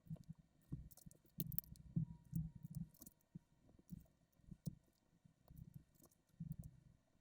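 LEGO bricks being handled and pressed together: irregular soft clicks and light taps of plastic pieces.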